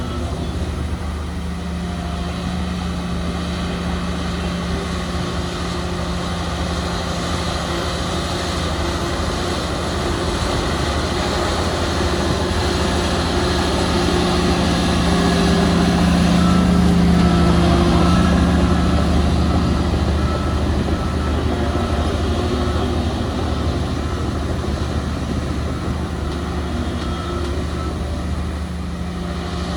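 Heavy diesel earthmoving machinery running steadily, the engine growing louder about halfway through and then easing off again.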